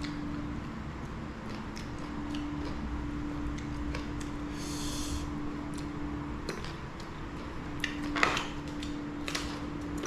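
Eating sounds: small clicks and taps of a meal being handled and eaten, with a brief rustle about halfway through, over a steady low hum.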